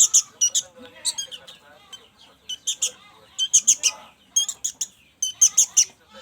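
Young sooty-headed bulbuls (kutilang) giving begging calls while being hand-fed. The calls come as rapid clusters of three to five sharp, high chirps, repeated about once a second.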